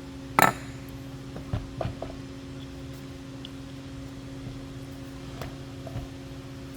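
A sharp click about half a second in, then several lighter knocks, as the trimmer is handled with its engine off. A steady low hum runs underneath throughout.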